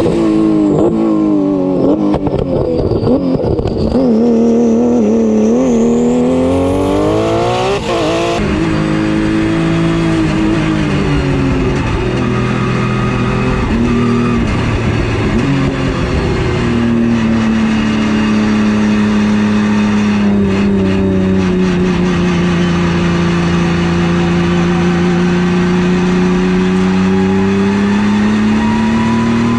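Porsche GT3 Cup race car's flat-six engine under hard acceleration, its pitch climbing and dropping at each gear change. After about eight seconds the sound shifts to a long, steadier pull whose pitch dips slowly and rises again.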